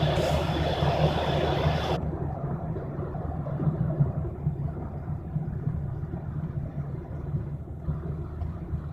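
Steady low engine drone with a hiss over it; about two seconds in, the hiss above drops away suddenly, leaving the low drone running.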